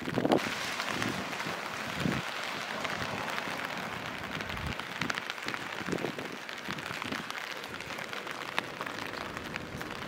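Steady rain falling: an even hiss sprinkled with fine drop ticks, with a few soft low thuds.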